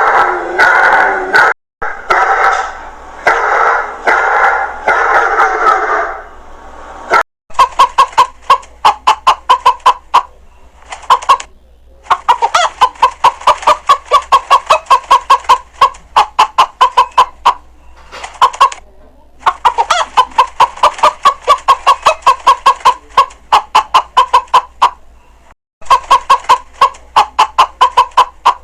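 Chickens clucking and cackling: a run of loud, harsh, repeated calls for the first six seconds, then from about seven seconds in a long series of quick, sharp clucks with a few short pauses.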